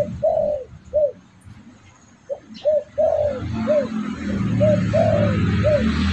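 Spotted dove (derkuku) cooing: three phrases of short, arched coo notes with brief pauses between them. It is a lure call recording for drawing wild doves. A low steady background sound runs beneath the coos in the second half.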